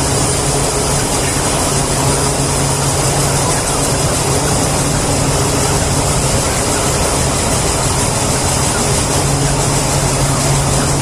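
A loud, steady mechanical drone with a low hum, unchanging throughout.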